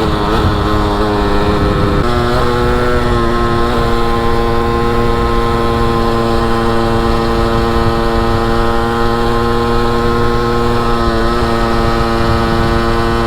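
Derbi motorcycle engine running under way, its pitch wavering, then stepping down once about two seconds in and holding steady as the bike cruises. Steady low rumble of wind and road underneath.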